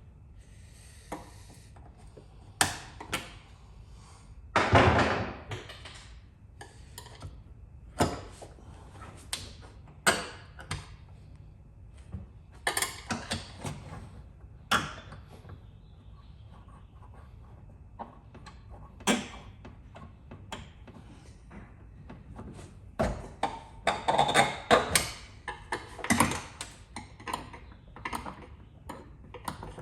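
Irregular knocks, clicks and clatter of tools and small parts being picked up and set down, with a few short rustling or scraping stretches, about five seconds in, near the middle and again near the end.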